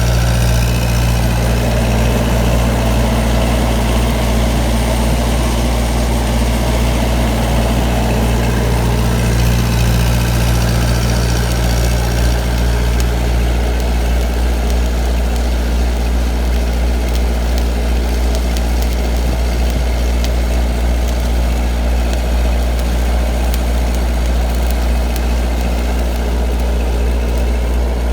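A heavy engine running steadily at idle, a loud low hum. About halfway through, part of the low drone drops away.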